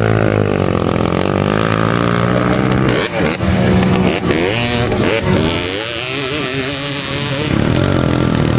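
Motocross motorcycle engines revving, their pitch sliding down and up, with a quick series of throttle blips about three to five seconds in.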